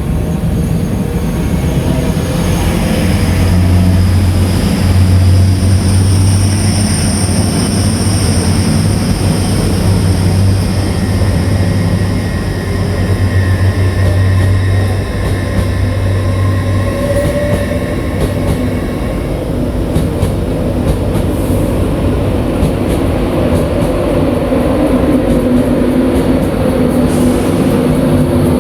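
A train moving through the station: a loud, steady low hum with high-pitched whines over roughly the first half, giving way to a broader rumble.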